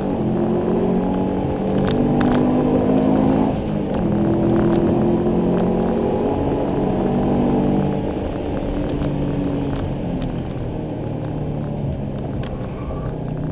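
2002 Subaru Impreza WRX STI's turbocharged flat-four engine heard from inside the cabin, pulling under load over road noise. It eases briefly about three and a half seconds in, then after about eight seconds runs quieter and lower, off the throttle.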